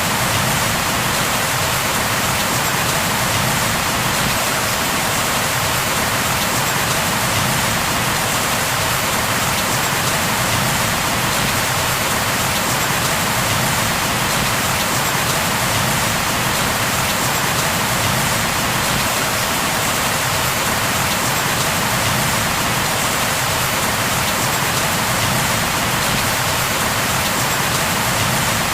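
Steady heavy rain falling, an even hiss of drops on a surface with no breaks or single impacts.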